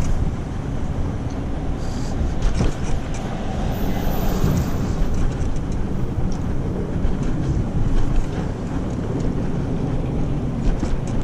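Wind buffeting the microphone of a moving bicycle, over a steady low rumble of tyres on pavement, with scattered small clicks and rattles.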